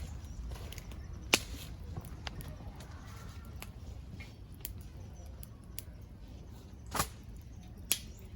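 Wood fire crackling: scattered sharp pops and ticks over a low background hush, with the loudest pop about a second in and two more near the end.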